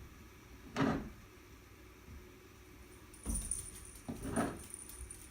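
Snow shovel scraping and scooping snow in a few separate strokes: one about a second in, another a little after three seconds, and a double stroke around four seconds. A light metallic jingling runs over the last couple of seconds.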